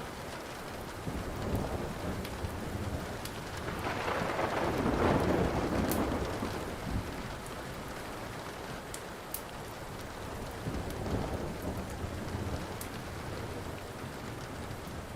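Steady rain falling, with a rolling rumble of thunder that swells about four to six seconds in and fades. Sparse sharp crackles of a burning wood fire pop over it now and then.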